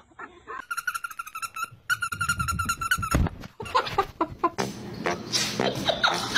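A bird calling in two rapid trills of evenly repeated notes at a steady pitch, each about a second long. From about three seconds in there is a jumble of knocks and other noises.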